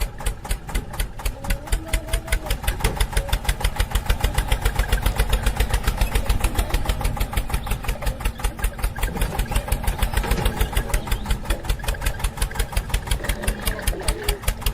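Mini tractor's engine running with a steady putt-putt of about six to seven beats a second.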